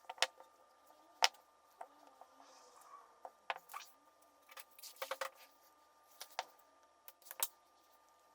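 Irregular clicks and knocks of small plastic and metal parts being handled while a cordless vacuum battery pack is worked on. The loudest click comes about a second in and a quick cluster about five seconds in, over a faint steady thin whine.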